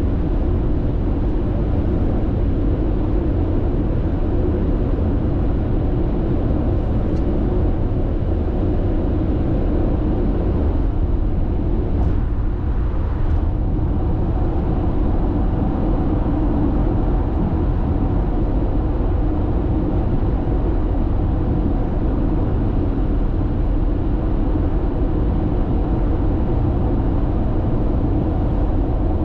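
Steady low tyre and road rumble heard inside a car's cabin while cruising at constant speed on an expressway.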